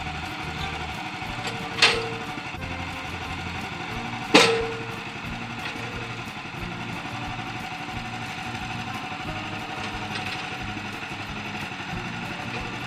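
Woodland Mills HM130MAX bandsaw sawmill's engine running steadily, with two sharp knocks that each ring briefly, about two seconds in and again two and a half seconds later.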